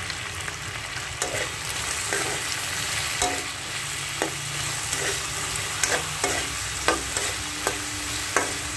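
Diced potatoes frying in hot oil in a kadhai, a steady sizzle, with a metal spoon scraping and clinking against the pan about once a second as they are stirred.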